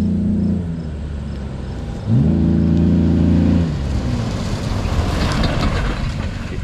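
Jeep engine revving hard at steady high revs. The revs fall away just under a second in, climb sharply again about two seconds in and hold for over a second, then drop off as a rougher noise takes over.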